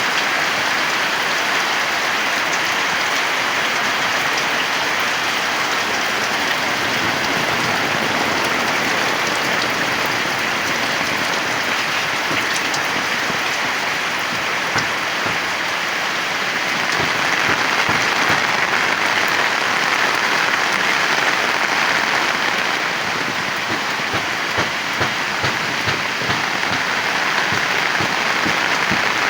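Heavy rain falling as a steady, dense hiss, swelling a little just past halfway. Near the end there are a few sharper spatters of drops.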